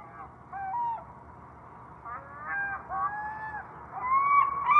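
Gulls calling: a few short, scattered yelping calls, then about four seconds in one louder, drawn-out call that starts a series of loud, repeated calls.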